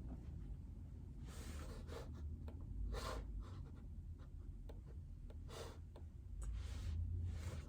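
A few soft scratching strokes at a desk, each a fraction of a second long and spaced irregularly, over a steady low hum.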